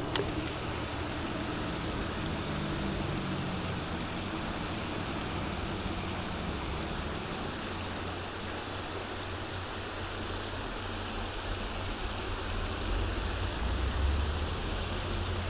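Steady rush of creek water pouring over a small waterfall, with a low rumble underneath that grows stronger near the end.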